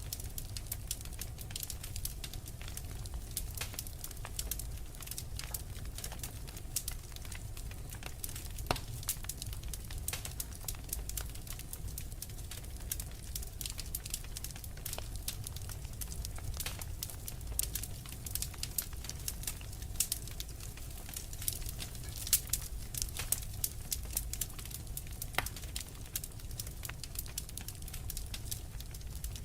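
Wood fire crackling: frequent irregular pops and snaps over a steady low rumble.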